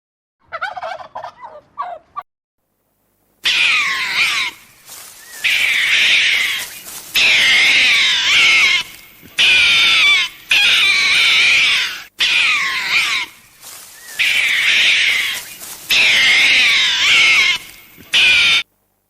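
An animal calling: a quick run of short, lower calls, then after a pause a long series of about ten loud, warbling calls, each about a second long, with short gaps between them.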